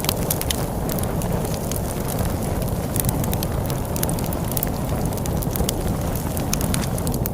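Wood fire crackling, with frequent sharp, irregular pops and snaps over a steady low rush of storm wind.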